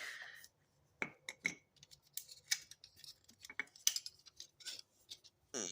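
Small metal parts, such as disc brake pads, being handled and rummaged through: irregular light clicks and clinks, a few of them ringing briefly.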